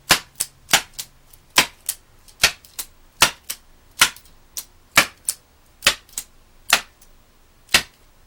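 Rubber band pistol firing a rapid string of shots: about ten sharp snaps, just under one a second, most followed closely by a softer click.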